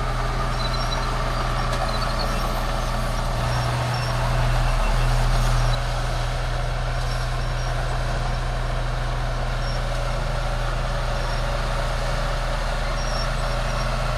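Bulldozer's heavy diesel engine running steadily, growing louder for about a second and a half about four seconds in before settling back.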